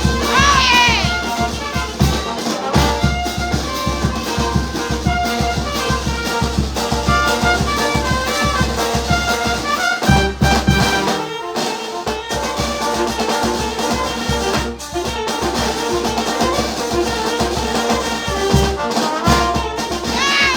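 Brass band music, trumpets and trombones playing over a steady, fast bass-drum beat, with a high swooping note near the start and again at the end.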